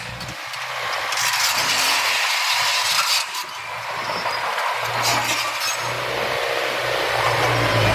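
Earthmoving machinery at work: a steady rattling, clinking noise of stone and metal. A diesel engine's low hum comes back about five seconds in.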